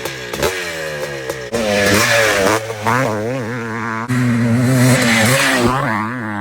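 Motocross bike engines revving, the pitch rising and falling quickly as the throttle is worked, with abrupt jumps in the sound about a second and a half in and again around four seconds.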